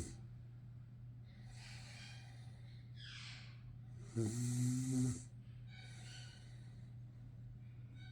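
Sleeping pug snoring: one loud snore lasting about a second, roughly four seconds in, with softer breathy breaths before and after it.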